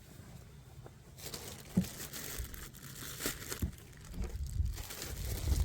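Plastic food packaging being crinkled and handled, starting about a second in, with a few soft knocks among the rustling.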